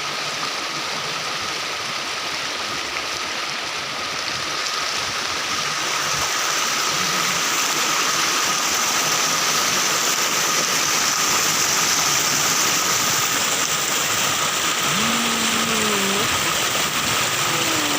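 River water rushing steadily, getting a little louder partway through, with a faint thin steady tone running through it.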